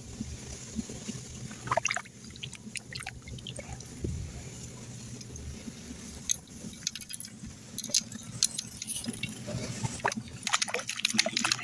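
Water splashing and dripping in short, irregular clusters of sharp sounds.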